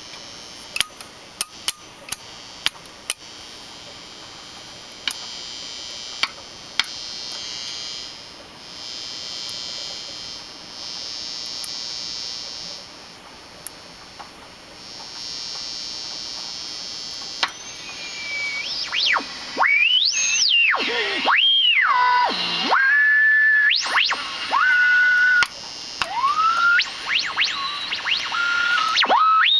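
A Toshiba five-tube superheterodyne valve radio's loudspeaker hissing with a few sharp crackles, then from just past halfway loud whistling squeals that sweep up and down in pitch and at times hold a steady tone. This is the strong abnormal oscillation either side of tuning, caused by a faulty local-oscillator-to-mixer coupling capacitor and bypass capacitors.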